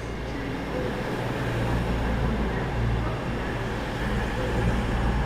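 CrossCountry Voyager diesel train's engines running with a steady low drone that slowly grows louder.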